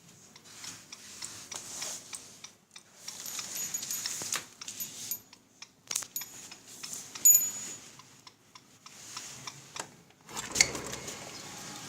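Pet bird giving a few short, high chirps amid irregular clicking, tapping and rustling, with a denser burst of rustling near the end.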